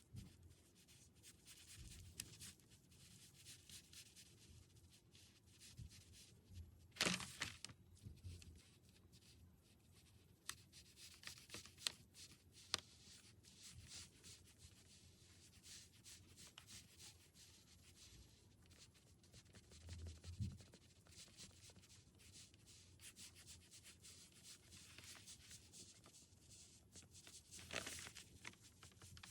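Faint rubbing and scratching of strokes on paper, with a louder brief paper rustle about seven seconds in and again near the end.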